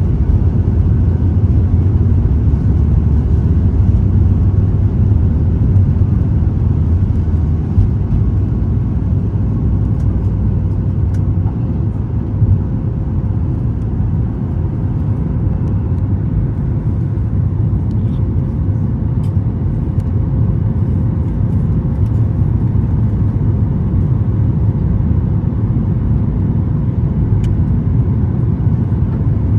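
Boeing 737 MAX 8 cabin noise at takeoff and initial climb: the CFM LEAP-1B engines at high thrust give a loud, steady, deep rumble with a faint steady hum, heard from inside the cabin.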